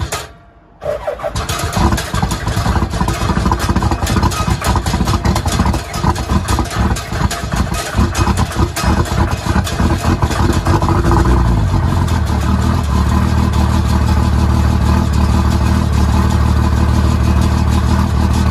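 Diesel engine on a cold start, running unevenly with irregular knocking at first, then about eleven seconds in dropping in pitch and settling into a steady idle. There is a brief drop-out lasting under a second right at the start.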